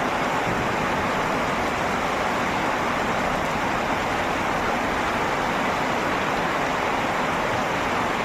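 Heavy rain falling, a steady, even wash of noise.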